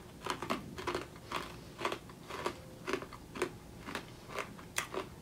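Chewing a mouthful of cocoa-glazed caramel-style popcorn, crunching about twice a second. The glaze is really hard to chew, very tough.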